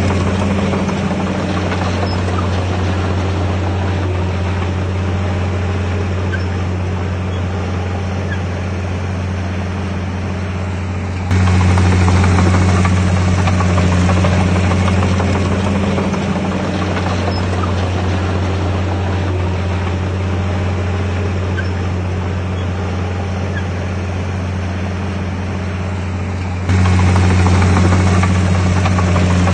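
Heavy diesel engine of earthmoving machinery running steadily with a deep, even drone. It jumps abruptly louder twice, about eleven seconds in and near the end.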